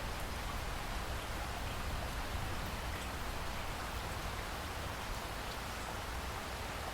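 Steady rain: a dense, even hiss with scattered drop ticks over a low rumble underneath.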